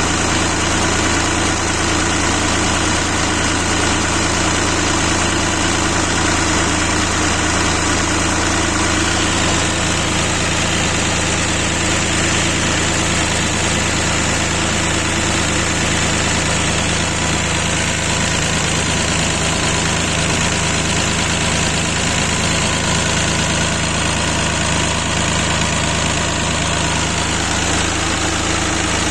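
D-130 diesel engine running steadily at idle, with an even, unchanging note.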